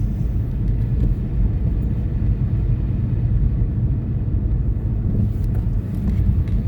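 Steady low rumble of a car driving, engine and tyre noise on the road, heard from inside the cabin.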